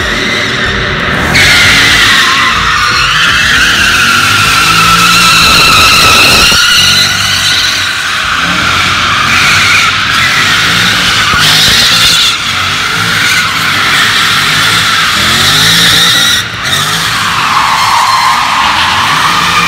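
A car drifting: the tyres squeal continuously, wavering in pitch, while the engine revs climb and drop again and again.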